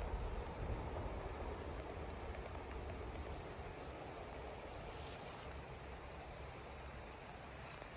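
Outdoor rural ambience: a steady hiss with a low rumble that slowly fades, and a few faint, short, high bird chirps.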